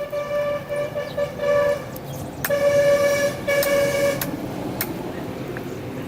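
A vehicle horn honked in a run of short blasts, then two longer ones, each held at one steady pitch, over a low engine-like rumble.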